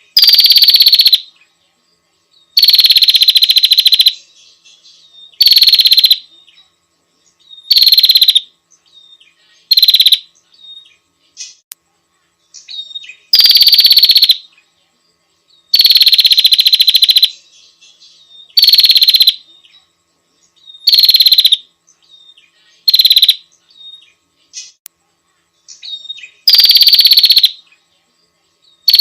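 Prinia giving loud, rapid rattling trills about eleven times, each opening with a falling note and lasting half a second to a second and a half, with faint short chirps in the gaps.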